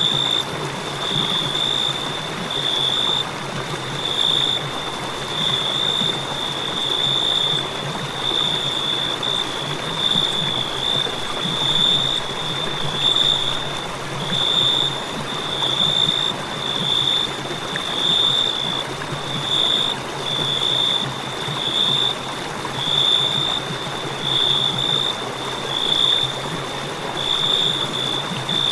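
A cricket chirping steadily, high-pitched pulses repeating about once a second, over a constant background hiss.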